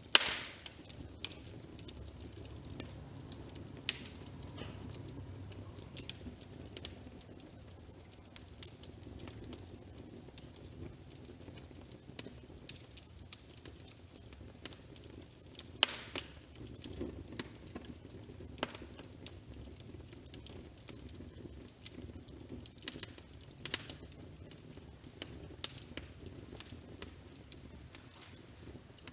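Wood fire crackling in a fireplace: a low steady rumble with irregular sharp pops and snaps, a loud pop right at the start and another about halfway through.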